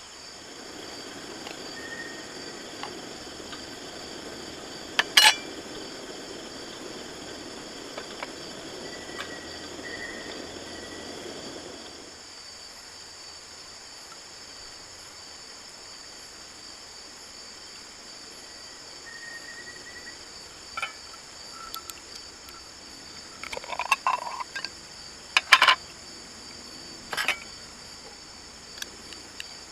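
Crickets and other insects chirring steadily in a high, even drone, with a few sharp clinks and knocks, one about five seconds in and a cluster near the end. A low, steady hiss runs under them at first and cuts off suddenly about twelve seconds in.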